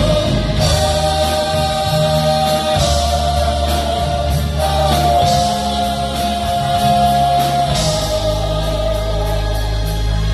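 Gospel singing with a band: a voice holds long sung notes over bass and drums.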